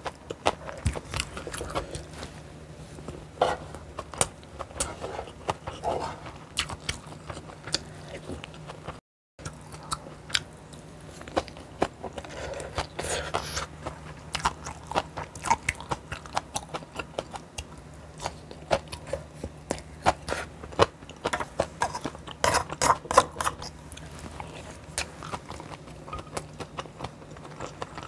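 A person chewing and biting food close to the microphone, with many short, crisp clicks and crunches. The sound drops out briefly about nine seconds in.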